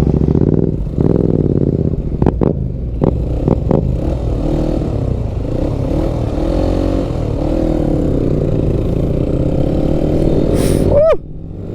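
Benelli BN 125's small single-cylinder engine running under way, its pitch rising and falling as the throttle opens and closes. There are a few sharp clicks in the first few seconds, and near the end a quick rev that rises and then cuts off suddenly.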